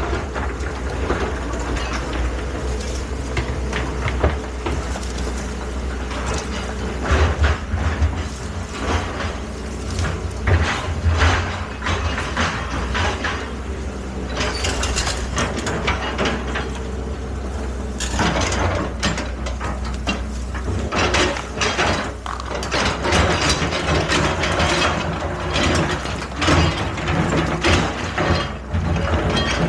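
Excavator working: its engine runs steadily under irregular clanks, knocks and scraping of the machine's metal parts.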